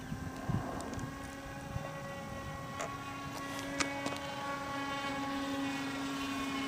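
Radio-controlled model airplane's motor and propeller droning steadily in flight, at one even pitch, getting a little louder in the second half.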